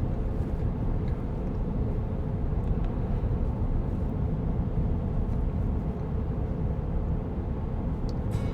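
Steady road and tyre noise heard inside the cabin of a moving Tesla Cybertruck, an electric truck with no engine running.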